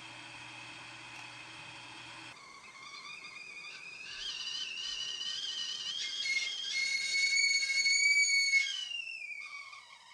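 Stovetop kettle starting to whistle: a wavering tone that rises and grows loud, then slides down in pitch and fades away near the end. It follows a steady hum that cuts off abruptly about two seconds in.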